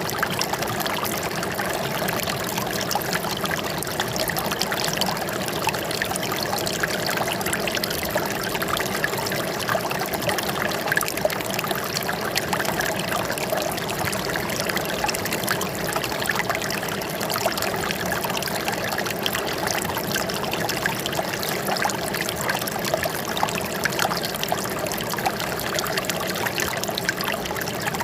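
Running water trickling and splashing steadily, with a fine crackle of small splashes over an even rush.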